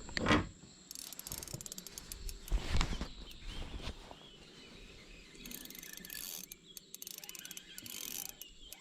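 Rapid fine clicking and a couple of knocks from fishing tackle being handled in a boat, with insects chirping behind.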